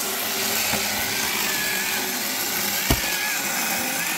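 Two-stroke chainsaw running steadily while cutting firewood logs, its pitch wavering slightly under load. A single sharp knock about three seconds in.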